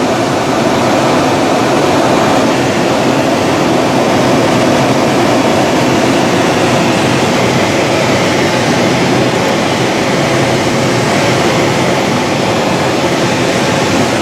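Steady rush of airflow over a motor glider gliding with its engine shut off, heard from inside the cockpit.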